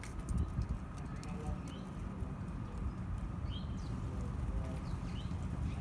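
A bird making a few short, high chirps, spaced a second or more apart, over a steady low rumble.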